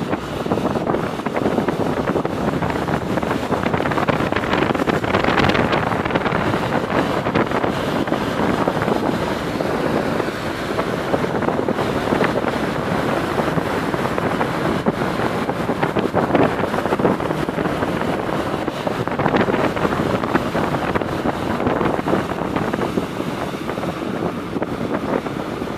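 Steady, loud rushing noise with wind buffeting the microphone.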